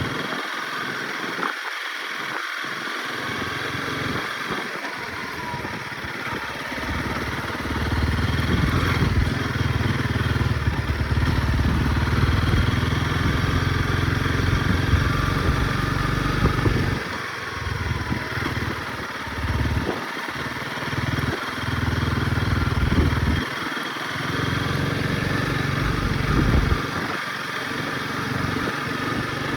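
Honda CRF motorcycle engine running on a ride, its sound swelling and dipping, with a low rumble that comes and goes.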